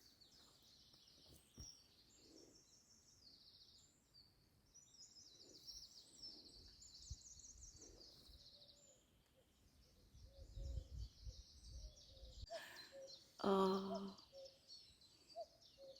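Small songbirds singing and chirping in quick, repeated high phrases. A low rumble comes in briefly about ten seconds in.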